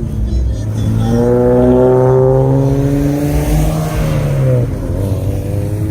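A car engine accelerating, its note climbing steadily for about three seconds, then letting off about four and a half seconds in before another engine note picks up.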